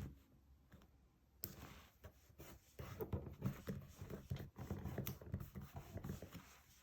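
Paper and stationery being handled while decorating a diary: a sharp click about one and a half seconds in, then a few seconds of quick rustling and small taps.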